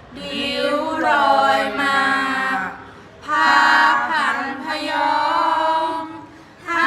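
Unaccompanied women's voices chanting Thai royal barge verse (kap he ruea) in long, slowly bending held notes: two drawn-out phrases with a short breath between them, and a new phrase starting near the end.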